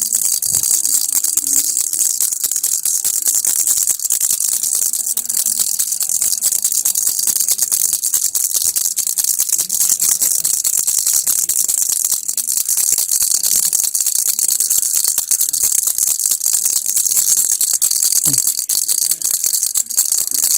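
Baby rattle (kilukki) shaken continuously: a steady, unbroken, high-pitched rattling of its loose pieces with no pauses.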